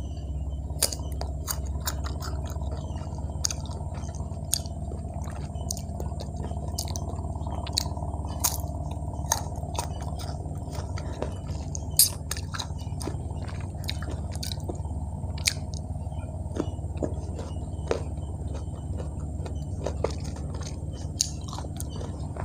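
Close-miked chewing of crisp unripe mango slices: irregular sharp crunches and wet mouth clicks over a steady low hum.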